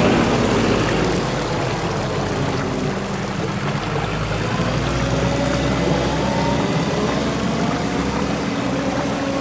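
Vehicle engine running, its pitch climbing slowly, over a steady rushing noise.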